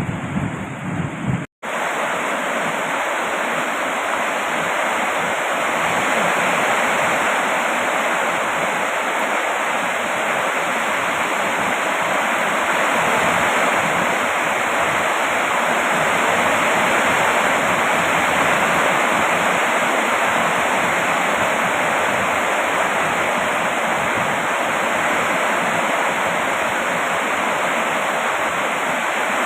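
Steady heavy rain, an even unbroken hiss. It opens with a deeper rumble for about a second and a half, which cuts off in a brief dropout where the recording is spliced.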